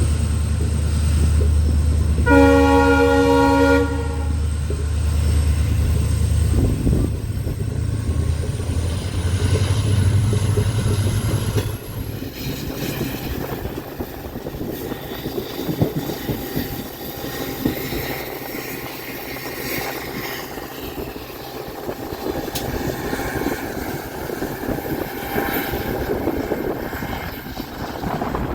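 WDP4B diesel locomotive running with a deep, steady engine rumble; its horn sounds once for about a second and a half, about two seconds in. About twelve seconds in the rumble drops away, leaving the steady running noise of the moving train on the track.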